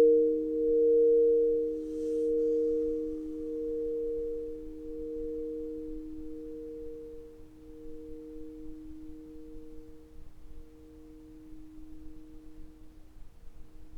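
Sound-healing instrument ringing out as a chord of three sustained tones, pulsing slowly and fading away. A faint brief rustle comes about two seconds in.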